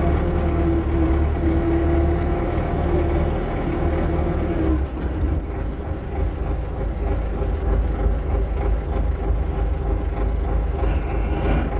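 Tractor engine running steadily while driving, a loud low drone with a steady hum that drops away about five seconds in, leaving a rougher rumble.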